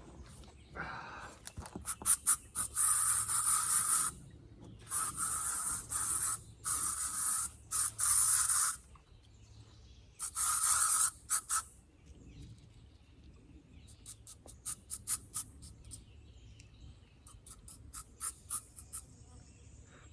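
Aerosol can of OFF! insect repellent spraying in five hissing bursts of a second or two each. Several light clicks follow near the end.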